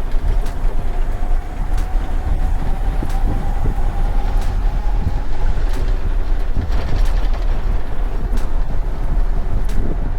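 Inside the cab of a box truck moving down the road: a steady rumble of engine and tyres, with a short knock repeating about every second and a half.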